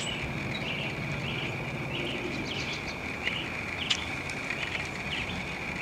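Small birds chirping, short high calls about twice a second, over a steady high-pitched drone and outdoor background noise.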